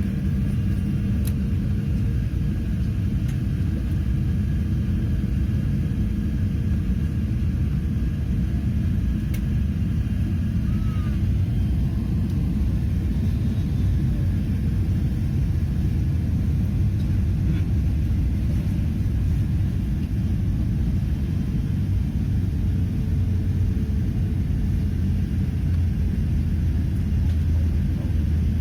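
Steady low rumble of an Airbus A380 airliner's engines and airframe, holding level without rising or falling.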